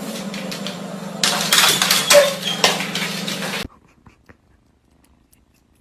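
A cat purring steadily, with rustling and scratching clicks over it that grow louder about a second in. The sound cuts off abruptly partway through.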